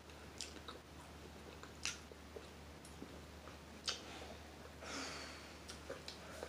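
Faint mouth sounds of eating crab meat: chewing and a few sharp clicks of lips or shell, with a short breathy hiss near the end.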